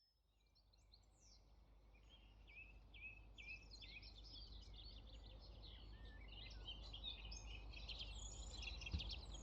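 Several small birds singing and chirping, faint and fading in over the first couple of seconds, over a faint steady low hum.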